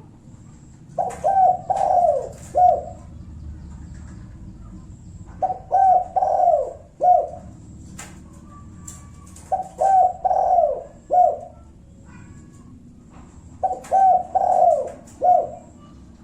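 Spotted dove (tekukur) cooing four times, about every four seconds. Each phrase is a few quick coos and a longer drawn note, then one short final 'kuk': the 'kuk satu' territorial song used to provoke rival doves into answering.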